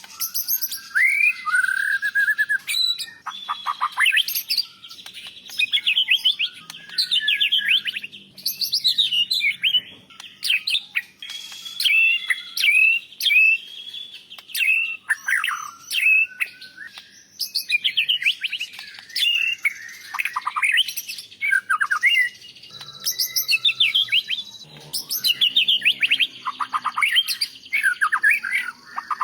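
White-rumped shama singing a varied song of clear whistles, pitch glides and fast trills and chatters, delivered in short loud phrases with brief pauses between them.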